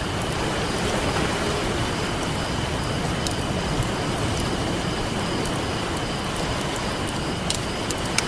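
Campfire crackling with scattered sharp pops over the steady wash of ocean surf, with a faint steady high-pitched note above it.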